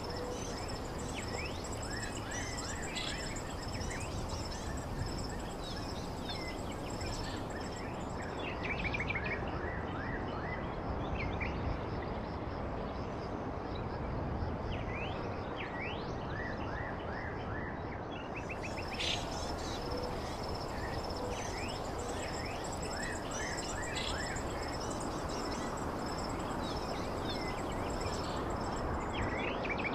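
Birds chirping: many short, quick chirps and brief glides, some in rapid runs, scattered throughout over a steady background hiss of outdoor ambience.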